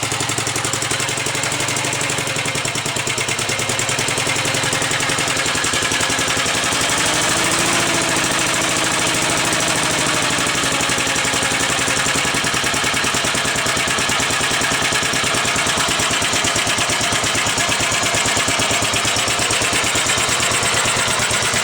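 The single-cylinder engine of a 1945 Gravely Model L walk-behind tractor runs steadily after its first start-up, warmed up and not smoking. Its even firing beat grows sharper and a little louder about six seconds in.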